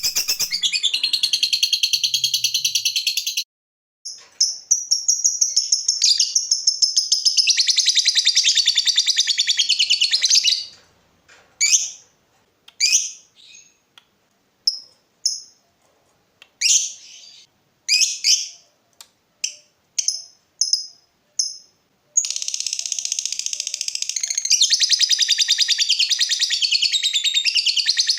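Lovebird singing in long, unbroken high chattering trills, broken in the middle by about ten seconds of separate short chirps, then a long trill again near the end.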